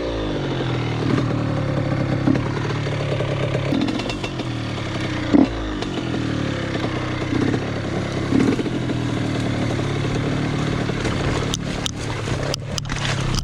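Two-stroke dirt bike engine running at low revs, its pitch rising and falling with repeated throttle blips as it is ridden slowly through deep muddy ruts. A few sharp knocks come near the end.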